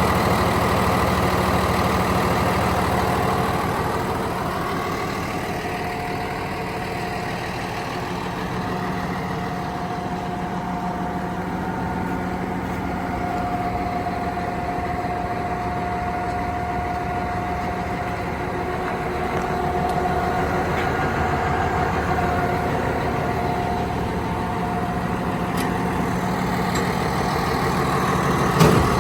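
Komatsu D85PX-18 bulldozer's diesel engine running steadily, a little quieter through the middle stretch, with one short knock near the end.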